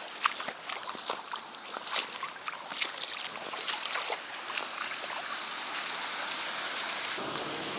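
Footsteps splashing through a deep puddle: irregular sloshing splashes for the first few seconds, giving way to a steadier wash of water noise.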